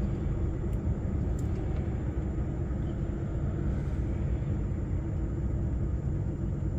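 Steady low rumble of a lorry's diesel engine and drivetrain, heard inside the cab while the truck idles or creeps along in stop-and-go traffic.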